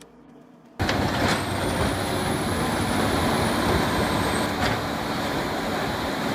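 Heavy machinery starting up suddenly after a near-quiet second and running loudly and steadily, with a dense mix of engine and grinding noise. There are a couple of sharp clicks and a faint high whistle over the top.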